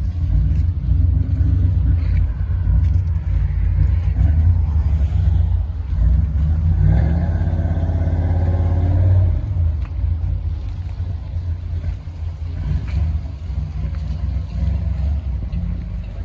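A car engine running with a deep, steady rumble, holding a higher, steadier note for a couple of seconds past the middle before settling back.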